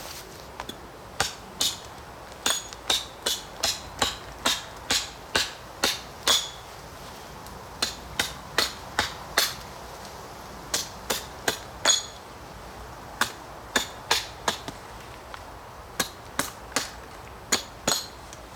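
Repeated hammering knocks, about two a second in runs broken by short pauses, each strike with a brief ringing note.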